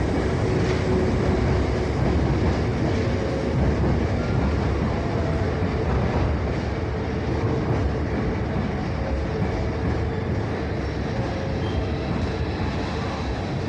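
Hankyu electric train running slowly into the platform, a steady rumble of wheels and motors with faint steady tones, easing a little towards the end.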